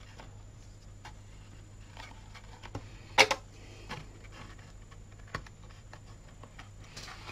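Hands handling cardstock and a small plastic spring clamp on a cutting mat: a sharp click about three seconds in, with a few fainter taps and clicks around it.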